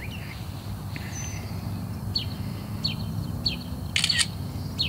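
Small songbird chirping outdoors: a few short chirps that drop in pitch, spaced about half a second to a second apart. A brief rattling burst about four seconds in stands out as the loudest moment. A steady low rumble runs underneath.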